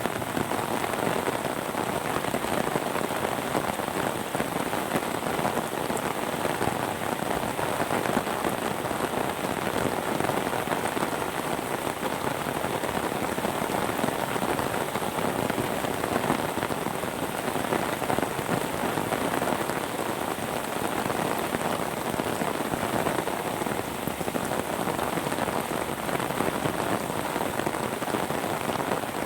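Steady rain falling and pattering on surfaces, a dense even patter.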